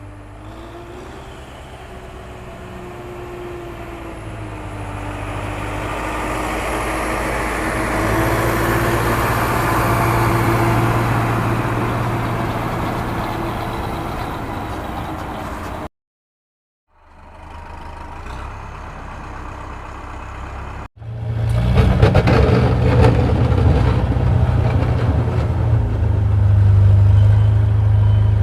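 Engine sound of a heavy vehicle running with a steady low hum that swells and fades. It cuts out abruptly about sixteen seconds in and returns louder after a brief break a few seconds later.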